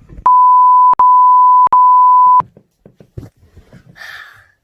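Censor bleep: a loud, steady, high beep tone in three back-to-back stretches lasting about two seconds in all, dubbed over the sound of someone eating. Faint small clicks and a short hiss follow.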